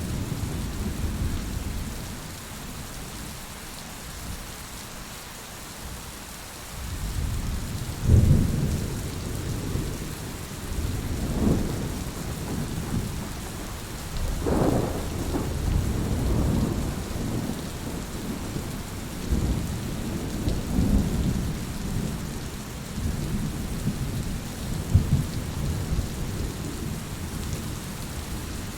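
Heavy rain falling steadily. From about seven seconds in, low rumbles of thunder roll in and out; the loudest comes about a second later.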